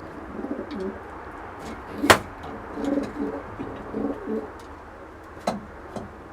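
Racing pigeons cooing in several low, warbling phrases. A sharp knock about two seconds in is the loudest sound, and two fainter clicks come near the end.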